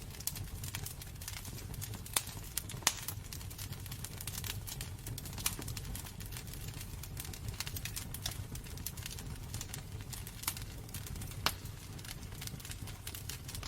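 Wood fire burning in a fireplace, crackling with irregular sharp pops, a few louder than the rest, over a steady low rumble.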